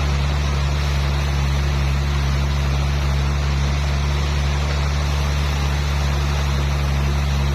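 Sawmill machinery running steadily: a constant low motor hum under an even hiss, with no cutting strokes or changes.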